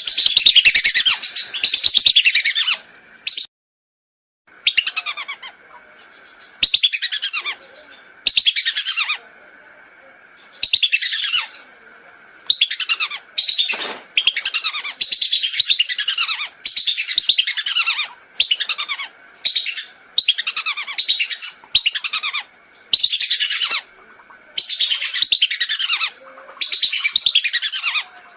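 Whistling duck (belibis) calls played as a hunting lure: bursts of high, shrill whistles about a second long, each made of quick falling notes, repeated every second or two. The calls break off into complete silence for about a second near the start.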